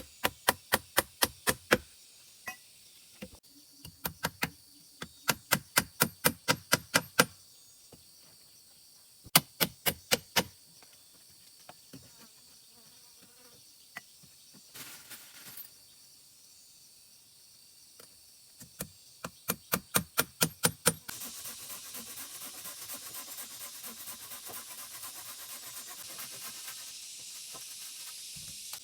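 Runs of rapid hard knocks, about four or five a second, in bursts of one to three seconds with pauses between, as of wood being struck repeatedly. About two-thirds of the way in, this gives way to a steady hiss with a fine, dense rattle that stops abruptly at the end.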